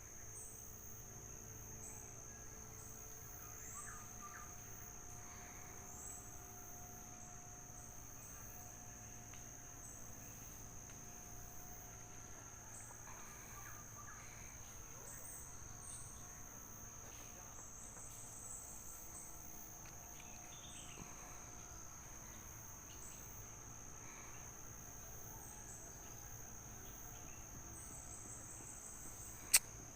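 Steady, high-pitched drone of crickets or other insects, with faint short bird chirps here and there. A single sharp snap near the end.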